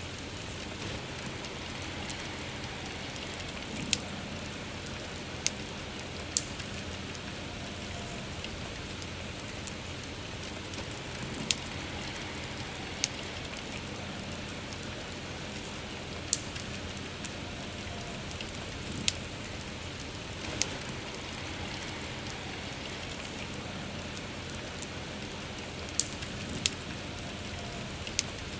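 Steady soft rain mixed with a crackling bonfire, with sharp wood pops every second or two over the even hiss of the rain.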